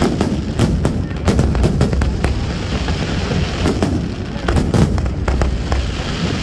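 Aerial fireworks display going off: sharp, irregular bangs several times a second over a continuous low rumble of bursts.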